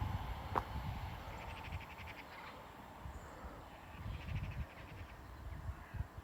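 A bird calling in two short runs of rapid pulsed calls, over an irregular low rumble of wind on the microphone.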